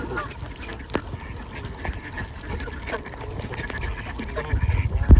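Waterfowl calling, mostly ducks quacking, as the flock crowds around for food. Scattered sharp taps and a low rumble sound under the calls, the rumble swelling near the end.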